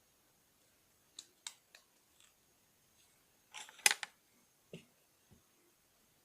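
Plastic Lego bricks clicking and knocking as they are handled: a few sharp clicks, a louder clatter about halfway through, then two duller knocks.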